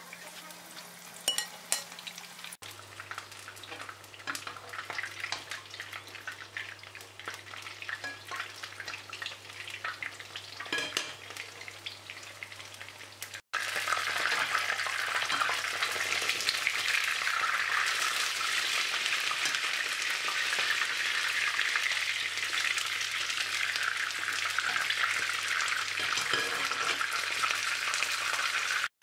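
Çiğ börek (thin minced-meat pastries) shallow-frying in hot oil in a nonstick pan, crackling and sizzling with scattered pops. About halfway through the sizzle becomes louder and steadier.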